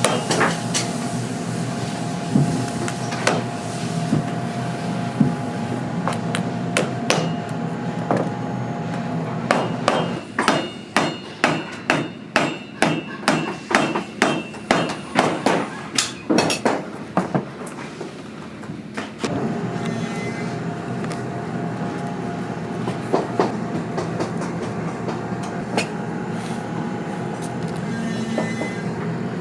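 Cobbler's hammer striking a boot repeatedly during a resole: scattered blows, then a steady run of quick strikes about two a second in the middle, over a constant background hum.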